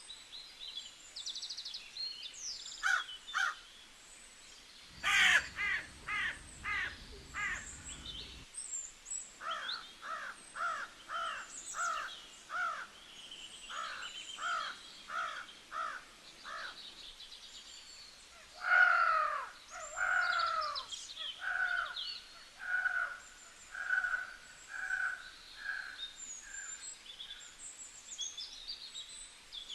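Birds calling: one bird gives long runs of harsh, evenly spaced calls, about two a second, while smaller birds chirp and twitter above it. A low rumble sounds under the first run for a few seconds.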